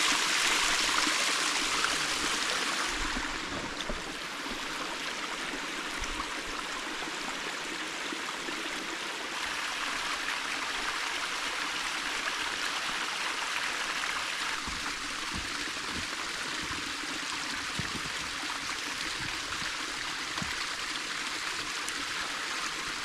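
Creek water flowing in a steady rush, loudest for the first few seconds and then a little quieter.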